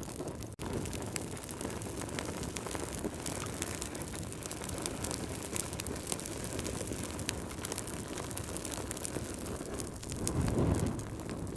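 Fireplace fire crackling: many small sharp pops over a steady low rumble, swelling louder briefly near the end.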